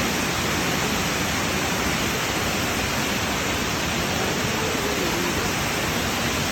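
Fukuroda Falls, a waterfall, making a steady rush of falling water while running at low flow.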